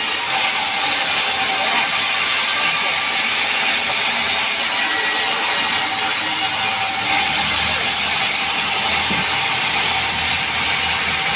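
Sawmill saw running steadily through pine, a dense high-pitched rasp of machinery with no break.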